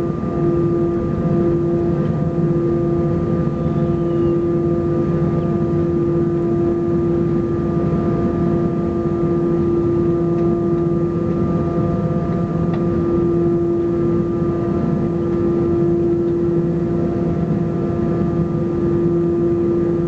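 Airbus A320 jet engines heard inside the passenger cabin: a steady rumble with a few constant humming tones that hold the same pitch and level, with no spool-up.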